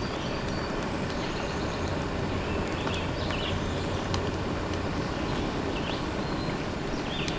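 Steady rain falling at a backcountry campsite, an even hiss, with a few short high chirps now and then.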